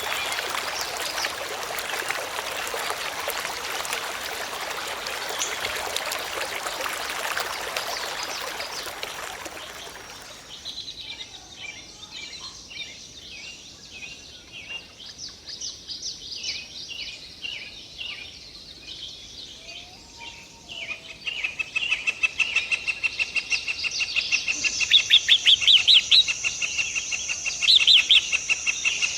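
Running water for about the first ten seconds, then small birds chirping. The chirps grow louder and faster from about two-thirds of the way in, over a steady high-pitched tone.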